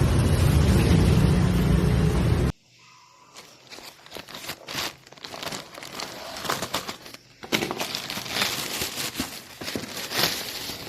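A loud, steady rushing noise cuts off abruptly about two and a half seconds in, followed by quieter, irregular crinkling and crackling.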